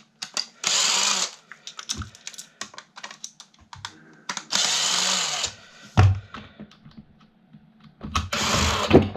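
Cordless drill backing screws out of a desk fan's plastic housing in three short bursts of about a second each, with small clicks and knocks of handling between them.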